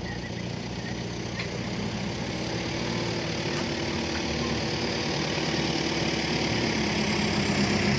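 A vehicle engine running steadily, growing slowly louder.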